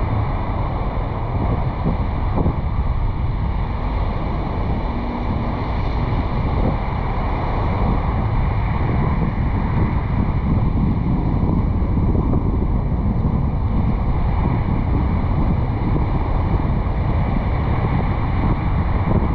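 Steady wind noise rushing over a roof-mounted GoPro 8 on a moving car, with the car's driving noise underneath.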